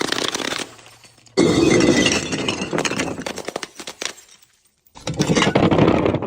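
Glass being crushed and breaking, with crackling and clinking of shards. It comes in separate bursts that start abruptly, about a second and a half in and again near five seconds after a short near-silent gap.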